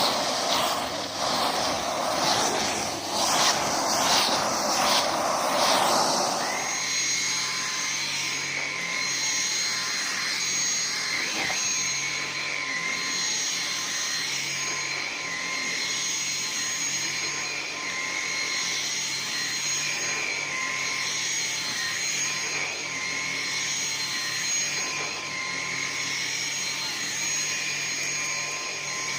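Numatic James vacuum cleaner running. For about the first six seconds it makes a rough rushing noise with crackles, then it settles into a steady motor whine with a high, slightly wavering tone.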